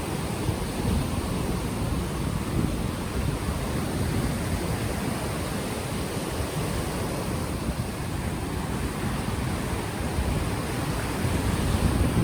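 Ocean waves washing onto the shore, a steady rush that swells again near the end, with wind buffeting the unshielded microphone.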